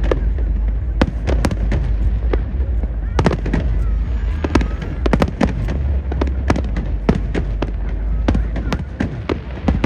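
Fireworks display: a dense, irregular run of sharp bangs and pops from bursting aerial shells, several a second, over a constant low rumble.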